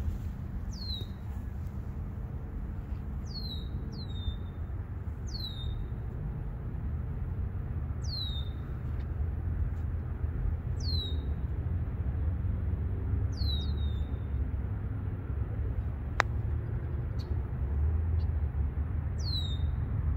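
A bird calling over and over, each call a short high chirp sliding downward, repeated every second or two over a steady low rumble. About sixteen seconds in comes one sharp click: an iron striking the golf ball on a short shot.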